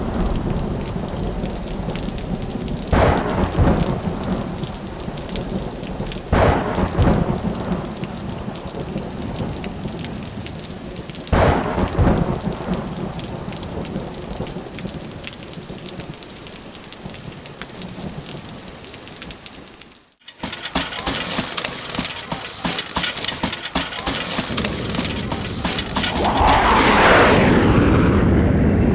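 Thunderstorm: steady rain with four thunderclaps, each a sudden crack trailing off into rumble. About two-thirds of the way in the sound cuts out abruptly and a different steady rushing noise takes over, growing louder near the end.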